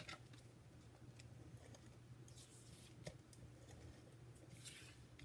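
Near silence with faint paper-craft handling: a few light clicks and two short, soft rasps as adhesive is applied to card stock, over a low steady room hum.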